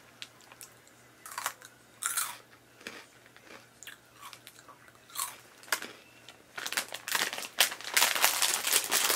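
Crunchy cheese-flavoured corn-and-rice puffs (Twisties) being bitten and chewed. Irregular crunches come more thickly near the end.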